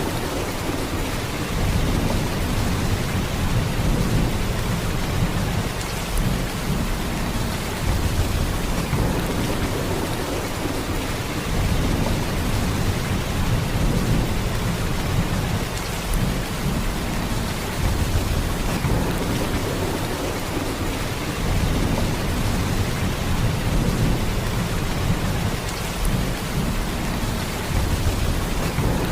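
Heavy rain falling in a steady downpour, with a deep low rumble under the hiss that swells and eases every few seconds.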